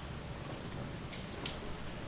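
Steady rain, an even hiss, with a single brief click about one and a half seconds in.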